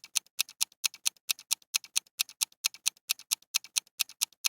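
Countdown timer sound effect: a clock ticking quickly and evenly, about four to five ticks a second, marking the time left to answer.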